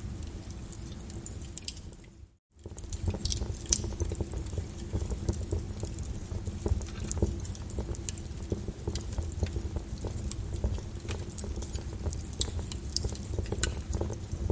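Wood fire crackling in a fireplace: a steady low rumble of burning with irregular sharp pops and snaps. The sound cuts out briefly about two seconds in, then resumes.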